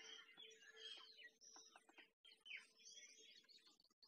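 Faint chorus of small birds chirping, with many short overlapping calls over a low steady hum. The sound cuts out completely twice for a moment.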